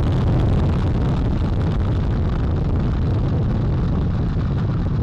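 Space Launch System rocket's four RS-25 core-stage engines and two solid rocket boosters firing during ascent just after liftoff: a loud, steady rumble with a crackling texture.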